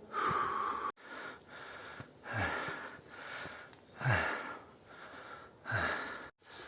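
A man breathing hard in heavy exhalations, about one every one and a half to two seconds, some ending in a low falling voiced sound.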